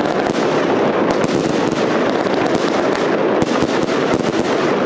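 Fireworks going off: a dense, continuous run of sharp pops and crackles over a steady rushing noise.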